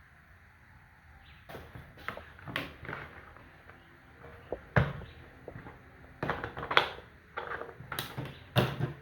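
A string of irregular clicks and knocks, as of objects being handled and set down, with the sharpest knocks about five, seven and eight and a half seconds in.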